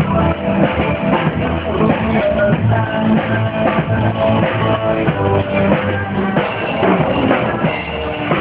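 Live rock band playing, with drum kit, bass and guitar, amplified through a car audio sound system.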